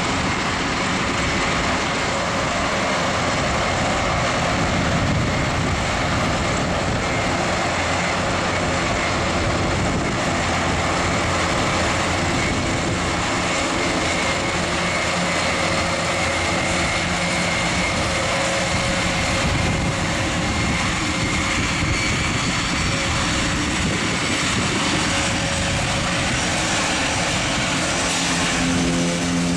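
The four turboprop engines of an Airbus A400M Atlas running at taxi power: a steady propeller drone with a high whine over it. About a second before the end, a deep hum comes in.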